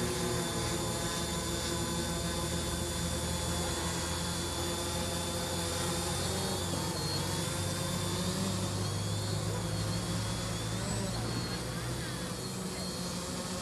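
OFM 650 V4 SE multirotor drone in flight, its electric motors and propellers humming as a steady stack of tones that waver slightly in pitch as the motors adjust.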